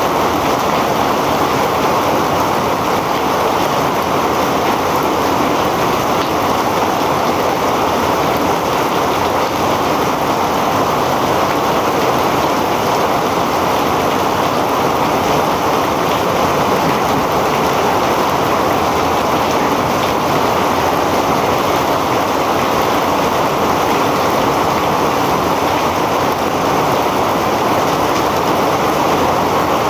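Heavy rain pouring steadily, a dense unbroken hiss of water.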